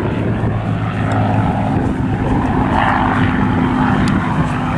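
Spitfire fighters' V12 piston engines droning steadily in flight, with propeller noise, the sound swelling briefly a little after halfway.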